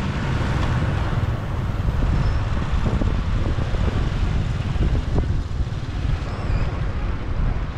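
Steady wind rumble on the microphone of a moving motorbike, mixed with engine and city traffic noise.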